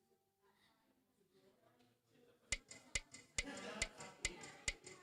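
Sharp, evenly spaced clicks at a steady beat, a little over two a second, begin about halfway in over a faint murmur of voices.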